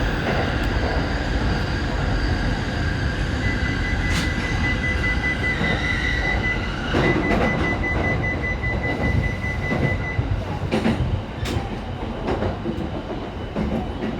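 E233-series commuter train running on the rails with rumble and wheel clatter, slowing in an emergency stop set off by a train protection radio alarm. A steady high squeal runs over it from about three and a half seconds in until about ten seconds in, and the running noise eases toward the end.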